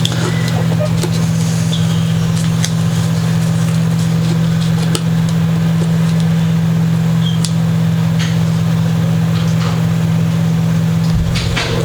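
Steady low machine hum, with a few light clicks and taps over it.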